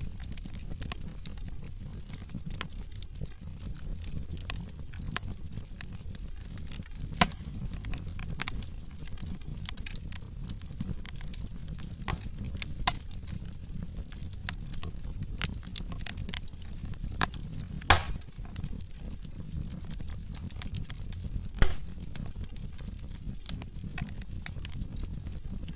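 Wood fire burning in a fireplace: crackling logs with scattered sharp pops over a steady low rumble of the flames, the loudest pops about 7, 18 and 22 seconds in.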